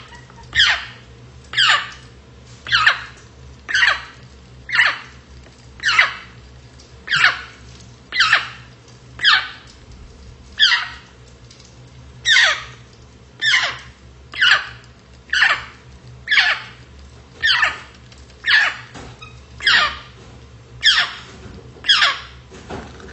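African grey parrot repeating the same short, high call over and over, about once a second, each call falling in pitch.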